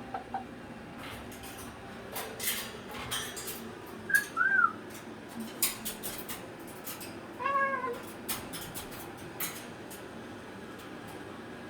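Two short meow-like calls, each rising then falling in pitch, about four seconds and seven and a half seconds in, the second longer, with frequent sharp clicks and taps around them.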